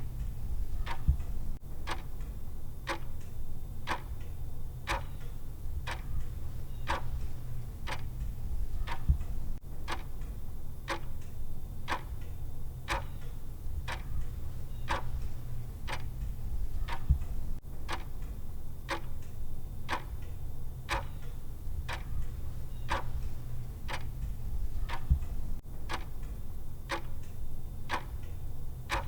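Clock tick sound of a countdown timer: sharp, evenly spaced ticks repeating steadily over a constant low hum.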